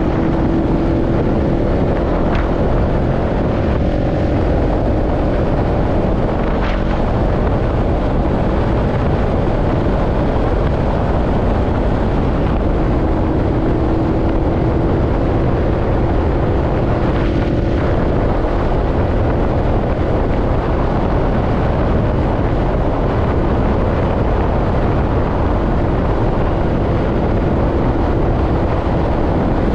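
Motorcycle engine running at a steady cruising speed, a constant engine note under loud wind and road rush, heard from a camera mounted on the moving bike.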